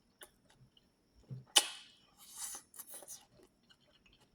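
Close-miked eating sounds: a sharp, crunchy bite about one and a half seconds in, then a spell of chewing with wet clicks and crackles.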